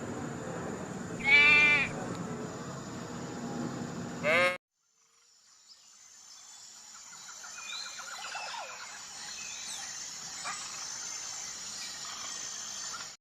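A goat bleats, one long call followed a few seconds later by a short one. The sound then cuts out and a quieter outdoor ambience with small birds chirping fades in.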